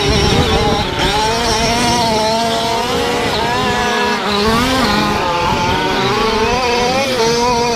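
Several 1/5-scale RC trucks' small two-stroke gasoline engines racing at once, overlapping, each rising and falling in pitch as it revs and backs off.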